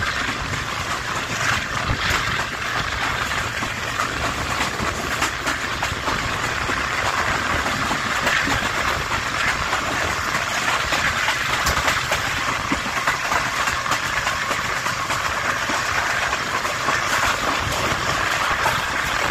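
Tez Gam Express passenger train running on the track: a steady rumble and rattle of the wheels, with a few sharp clicks here and there.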